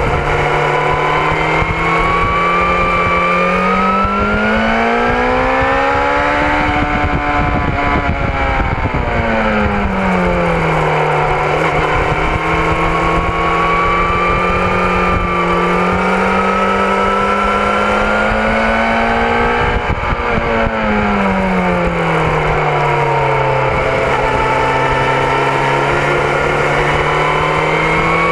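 BMW S1000RR's inline-four engine running hard on track, its pitch climbing as it accelerates and falling away twice as it slows, with wind noise rushing over the onboard microphone.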